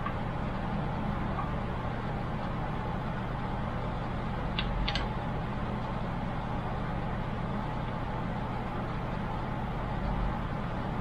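Steady background hum with a constant low drone, and a couple of small sharp clicks about halfway through from hardware being handled during a PC cooler install.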